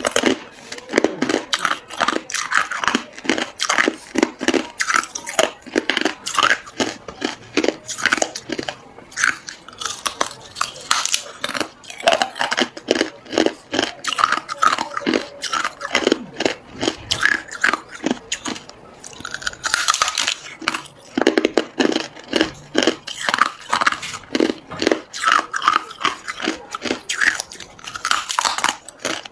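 A person biting and chewing hard ice, a rapid, continuous run of loud crunches and cracks.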